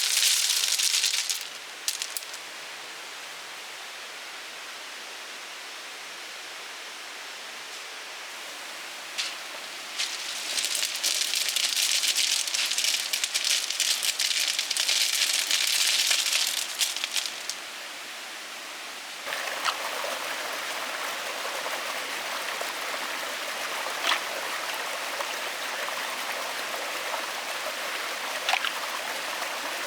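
Steady rushing noise like running water, broken by two stretches of loud, crackly rustling that start and stop abruptly, with a few sharp clicks near the end.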